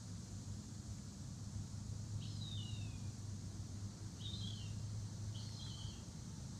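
A songbird calls three times, each call a short pair of falling slurred chirps, over a steady low hum and a faint high hiss of outdoor background.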